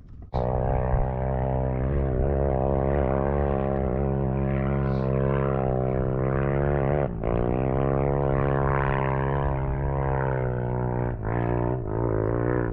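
Off-road vehicle engine running loudly at a steady speed, starting abruptly just after the start. Its pitch dips briefly about seven seconds in and wavers again near the end.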